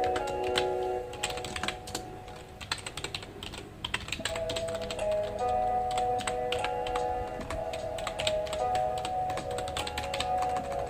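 Typing on a computer keyboard: a quick, irregular patter of keystrokes. Soft background music plays with it, dropping out briefly about two seconds in before returning.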